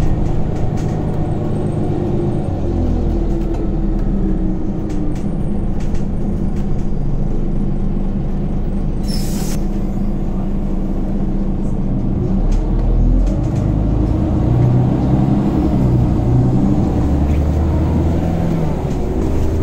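Scania Omnicity city bus heard from inside while driving, its engine and ZF 6HP Ecomat automatic gearbox running under load. The engine note steps and shifts several times and rises around twelve seconds in. A short hiss comes about nine seconds in.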